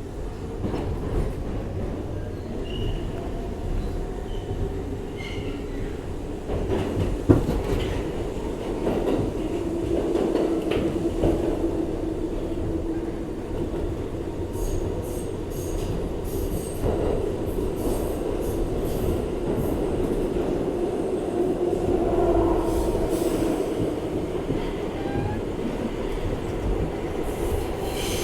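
Interior sound of a New York City R62A subway car in motion: a steady rumble of wheels on track, with a single sharp knock about seven seconds in. A humming tone swells twice, and light rattling clicks come through in the middle.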